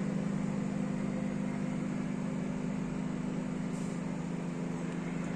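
Microwave oven running with a steady low hum while it heats food.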